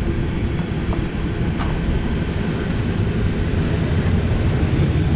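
Steady low rumble with two faint clicks about a second and a second and a half in.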